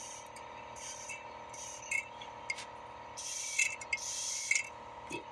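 Small carburetor parts being handled while the freshly fitted float needle and pin are tested: several short hissing scrapes over a steady background hum.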